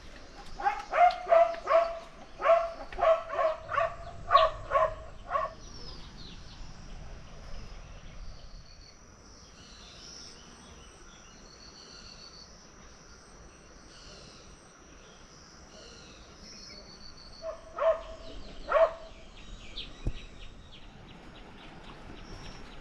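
A dog barking: a quick run of about a dozen barks, then two more about two-thirds of the way through. Birds chirp faintly in the background.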